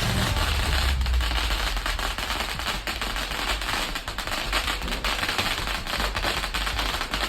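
A 10,000-cracker string (a '10k wala') going off: a continuous, dense rattle of small bangs with no pause.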